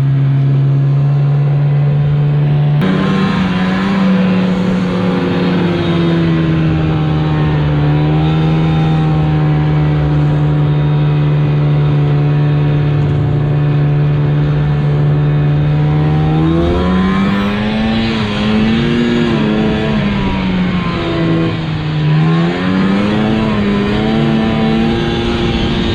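Snow plow truck's engine running under way, the pitch stepping up about three seconds in, then holding steady before rising and falling several times near the end as the truck speeds up and slows.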